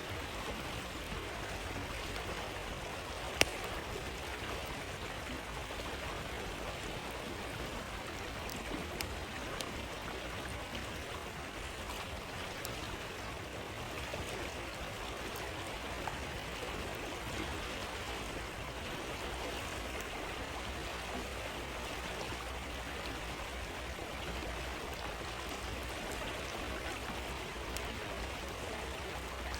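A flowing stream rushing steadily, with occasional sharp pops from a crackling campfire, the loudest about three seconds in.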